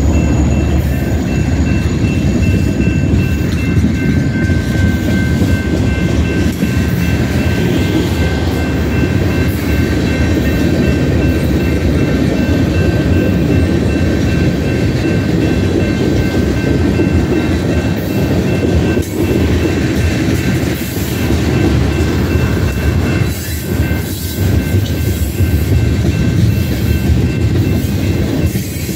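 Freight train passing close by at a grade crossing: the locomotives and then a string of covered hoppers and tank cars roll past with a steady rumble and clatter of wheels on rail. A thin, high, steady ringing comes and goes over it.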